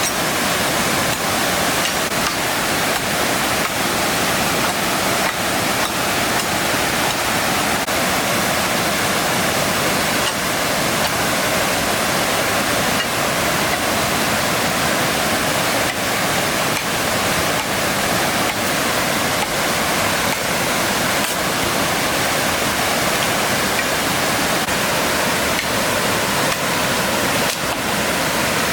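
Waterfall rushing: a dense, steady roar of falling water that does not change.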